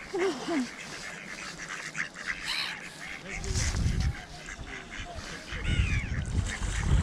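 Ducks and geese calling in short scattered calls, with wind rumbling on the microphone from about halfway through.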